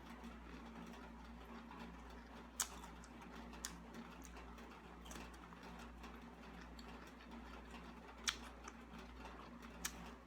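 A person eating, with quiet eating and tableware sounds and four sharp clicks spread through, over a steady low hum.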